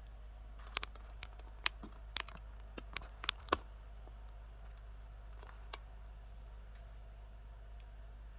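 A quick run of sharp plastic clicks and taps, about a dozen within three seconds and one more a couple of seconds later, from hands working on wiring-harness connectors. A steady low electrical hum runs underneath.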